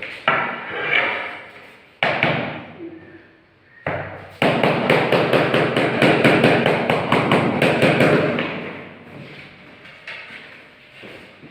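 Marble floor tile being tapped down into its mortar bed: a few separate knocks, then a loud run of quick taps and thuds, about three or four a second, that fades out after about four seconds.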